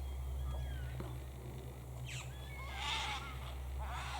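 Wild cockatoos and other birds calling: thin whistled notes sliding up and down, and a loud harsh wailing cry about three seconds in, with another starting near the end.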